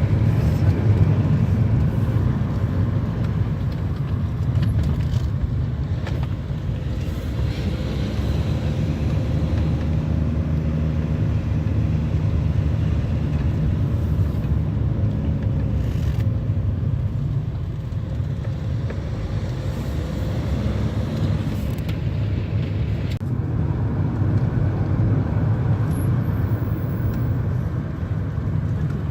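A car driving, with a steady low rumble of engine and road noise; a faint engine note drifts up and down about a third of the way in.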